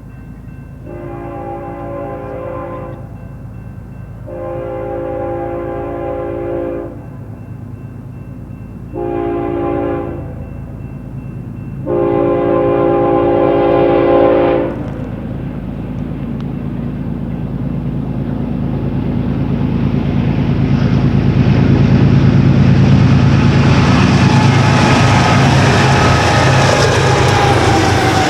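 Diesel locomotive air horn sounding the grade-crossing signal, long, long, short, long, in a multi-note chord, on a BNSF freight train. The locomotive engines and the rumble of the train then grow steadily louder as it approaches and passes.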